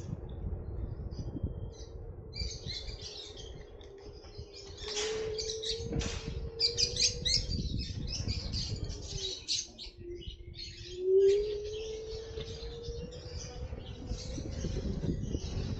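Birds chirping in quick runs of short high notes over a steady hum and a low rumble. The hum dips in pitch and then swells loudest about eleven seconds in.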